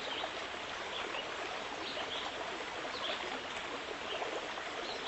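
Steady running water, a stream babbling, with many small bubbling blips over an even rush.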